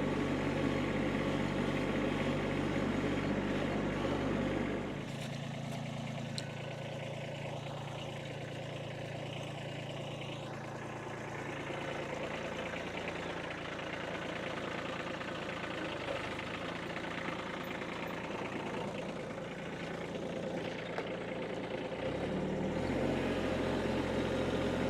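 Kubota tractor's diesel engine running steadily, settling to a lower, quieter note about five seconds in and picking back up to a higher speed near the end.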